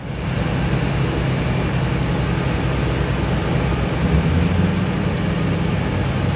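Heavy diesel engine of a logging truck or forestry machine running steadily and loudly, with a low engine hum under a strong rushing noise.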